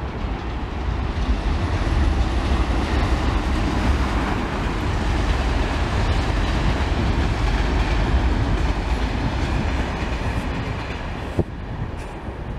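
Main-line passenger train passing close by: a steady rush and rumble of the train that builds over the first two seconds, holds, then eases off and drops away near the end.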